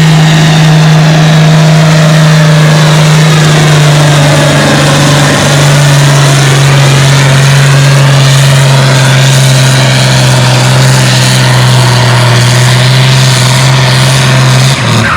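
Antique tractor engine running hard under load during a pull, with one steady low note that sags slightly about five seconds in and drops off near the end as the throttle comes back.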